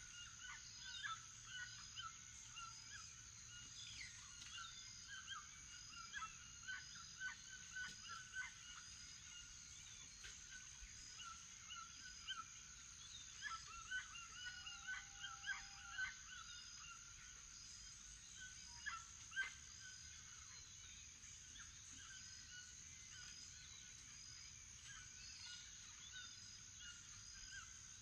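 Morning bird chorus, toucans among the birds: many short calls repeated over and over, some with a honking quality, with a steady high insect whine underneath. A louder call stands out about nineteen seconds in.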